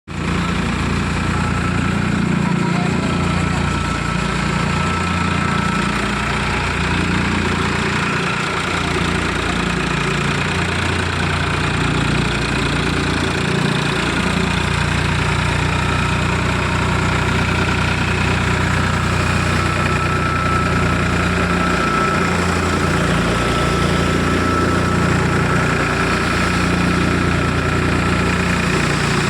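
Tractor engine running at a steady speed, a deep, even hum with a thin steady whine above it.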